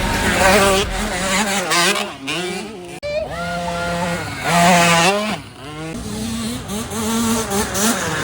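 Dirt bike engines revving hard, their pitch climbing and falling back again and again as the riders accelerate and shift, with a sudden break about three seconds in.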